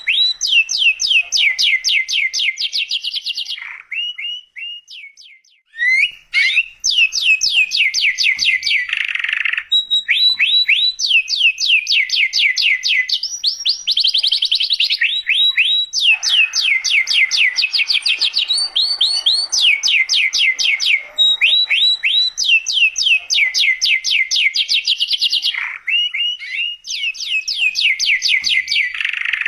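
Domestic canary in full song: a continuous string of rapid trills, each made of one note repeated many times a second for a couple of seconds before switching to the next. There is a short break about four to six seconds in.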